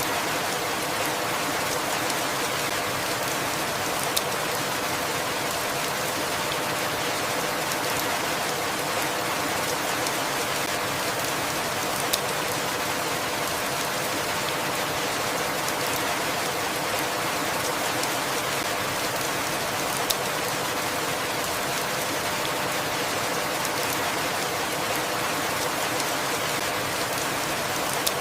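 Steady, even rainfall, with a few sharp single drop ticks standing out about every eight seconds.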